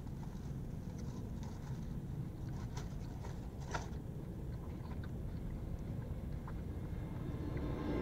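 A person biting into and chewing a double cheeseburger (In-N-Out Double-Double), with faint mouth and wrapper clicks and one sharper click a little before four seconds in, over a steady low rumble of traffic.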